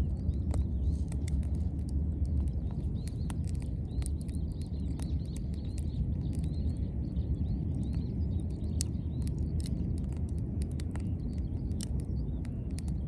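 Wood campfire crackling, with frequent sharp, irregular pops over a steady low rumble.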